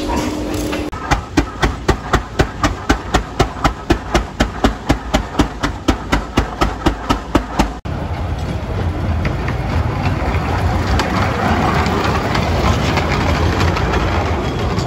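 Sharp, evenly spaced knocks about four times a second, which stop abruptly near the middle. Then a miniature steam train rolls past with a steady rumble.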